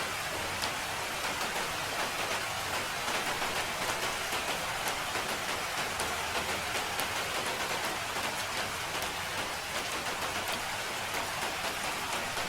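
Steady rain falling, an even hiss with the soft patter of individual drops.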